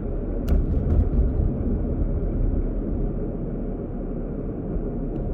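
A car driving along a road, with a steady low rumble of engine and road noise. A couple of sharp clicks or knocks come about half a second and about one second in.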